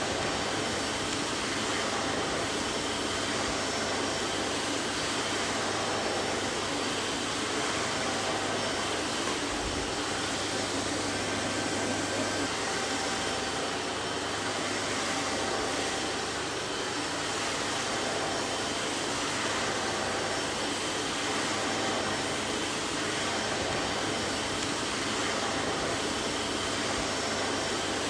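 Vacuum cleaner running steadily, an even rushing noise with a faint hum and no change in speed.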